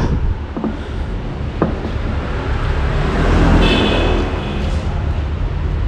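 Road traffic: a steady low rumble of passing motor vehicles, swelling as one goes by a little past the middle, with a couple of brief clicks near the start.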